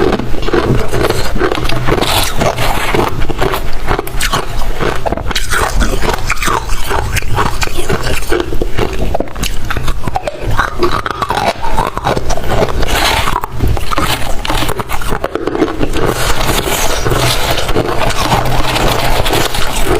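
Close-miked crunching of white freezer frost ice being bitten and chewed, a dense, continuous run of crisp crackles with some scraping.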